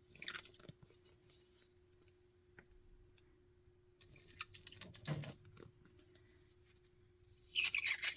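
Faint handling of craft materials on a desk: soft rustles and small clicks, with a cluster about four to five seconds in, over a faint steady hum.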